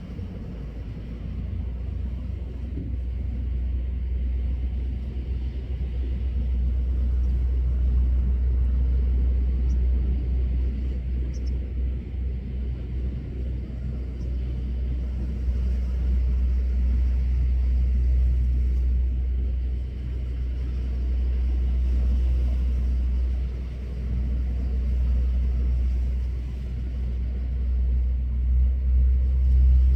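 A steady low rumble that swells and dips in level.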